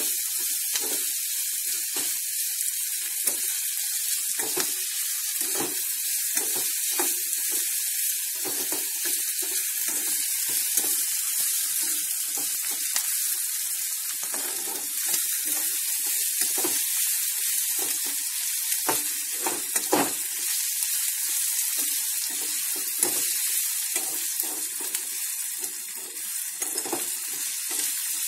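Chopped onions sizzling in hot oil in an aluminium kadai, a steady high hiss. Frequent irregular clicks and scrapes come from a metal spoon stirring against the pan.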